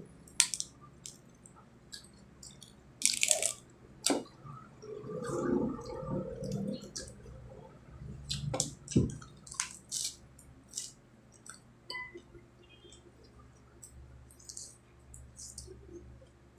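Close-up eating sounds: wet chewing and squishing with irregular sharp crunches and clicks, as crisp leafy greens and raw shrimp are eaten, with a louder crunch about three seconds in.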